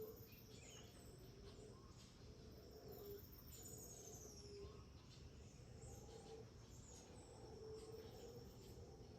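Faint tropical rainforest ambience: several birds calling with short chirps and whistles, including one descending trill a few seconds in, over a steady insect drone.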